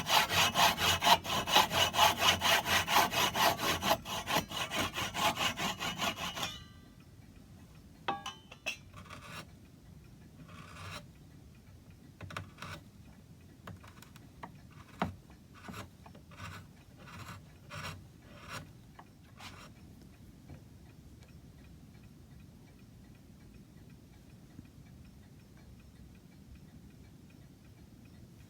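Hand saw cutting through old wooden dowels: fast, even strokes, about four a second, for some six seconds. These are followed by scattered lighter strokes until about twenty seconds in, and then near quiet.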